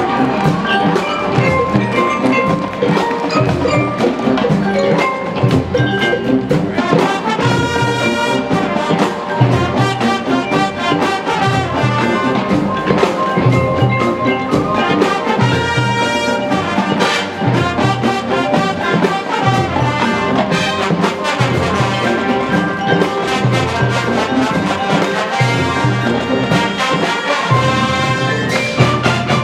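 Marching band playing: brass with mallet percussion such as marimba and glockenspiel over a steady drum pulse.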